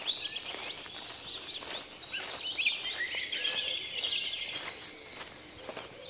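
A chorus of Australian bush birds, several singing at once, with fast high trills and repeated chirps and whistles.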